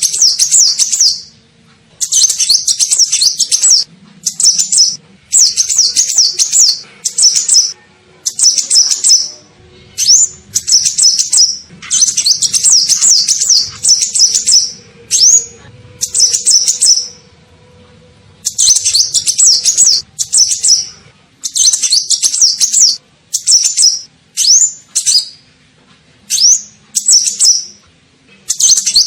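Kolibri ninja sunbird song used as a bird-lure call: loud, high-pitched, rapid twittering phrases of a second or two each, repeated over and over with short pauses between them.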